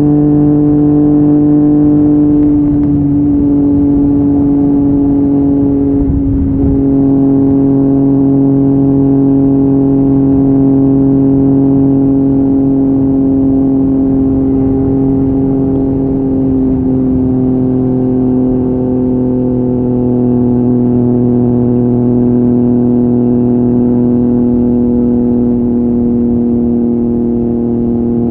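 Yamaha MT-09's three-cylinder engine through an Akrapovic exhaust, running steadily under way at a fairly constant engine speed. There is a brief break in the note about six seconds in, and the pitch sinks slowly after it.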